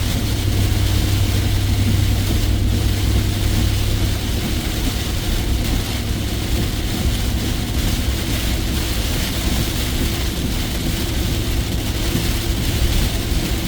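Inside a truck's cab driving in heavy rain: steady engine and road noise with rain hitting the roof and windshield. A low engine hum is strongest in the first few seconds.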